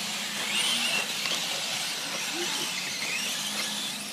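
Electric 4WD RC short course trucks racing: thin, high motor whines that waver up and down over a steady hiss.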